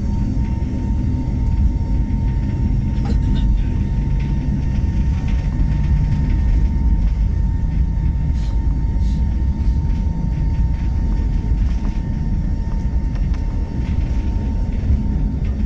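Steady low rumble of an airliner heard from inside the passenger cabin, with a thin steady whine over it and a few faint clicks.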